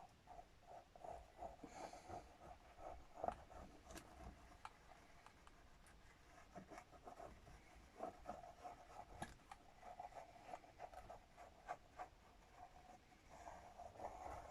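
Faint, scratchy rubbing of paper being smoothed down by hand, in short repeated strokes, with a few light taps and clicks.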